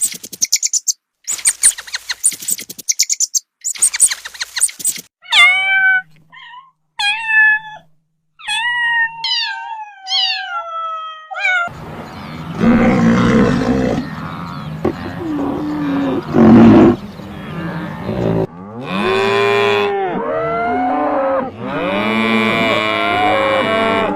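A run of different animal calls: rapid clicking chirps, then a string of short calls that fall in pitch, then, from about halfway, longer calls and bellows that bend up and down in pitch.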